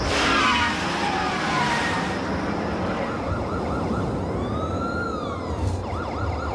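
Sci-fi sound effects over a steady rumble: whistling tones that sweep down, then a quick run of short rising-and-falling chirps, then longer siren-like arcs rising and falling. It all cuts off abruptly at the end.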